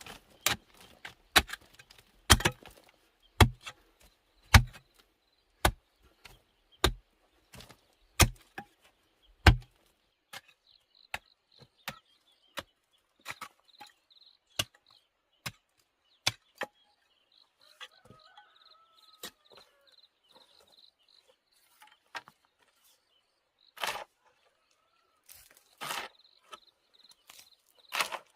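Blade chopping into wood, strong strokes about one a second that thin out after about ten seconds into lighter, scattered knocks.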